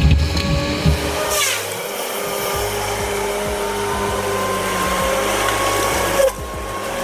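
Heavy machinery running: a steady mechanical whine of engine and hydraulics, its pitch creeping slowly upward, with a short falling sweep about a second and a half in and a sudden change near the end.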